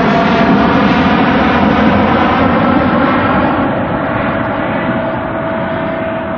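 Jet airliner's engines passing close, loud, with a steady whine riding over the noise, slowly fading over the last couple of seconds.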